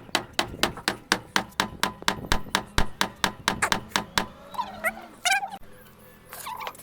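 Rapid, even knocking, about five strikes a second for around four seconds, then stops; a few short rising squawk-like calls follow.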